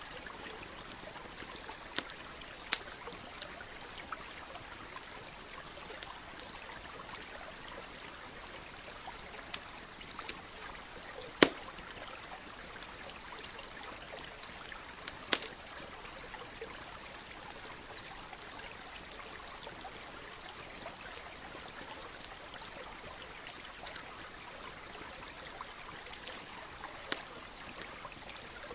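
Steady trickling and rushing of a stream, with the irregular sharp crackles and pops of a campfire. The two loudest pops come a little before and a little after the middle.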